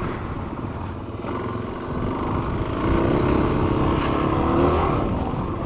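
Dirt bike engine running, getting louder about three seconds in and easing off slightly near the end.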